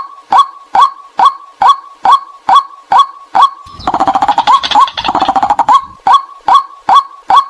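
White-breasted waterhen calling: a monotonous, evenly repeated call about twice a second. About four seconds in it is broken by a two-second run of faster, harsher croaking calls.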